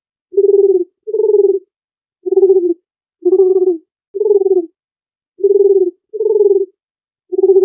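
Dove cooing: a run of about eight short, low coos, each about half a second, coming roughly once a second, some in close pairs, with dead silence between them.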